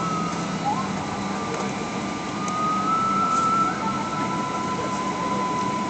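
Cabin noise of a jet airliner on the ground: a steady rush of air and low hum with a high, slightly wavering whine over it.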